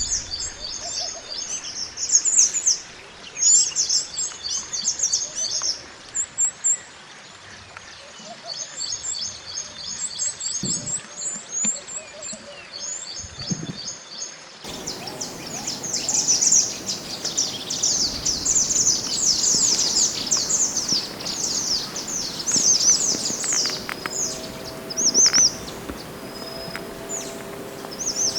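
Wild mantenan gunung songbird singing: fast, high-pitched twittering and chirping phrases, the kind of song used to tutor cagebirds. About halfway through, the background noise changes abruptly, as if a second recording is joined on.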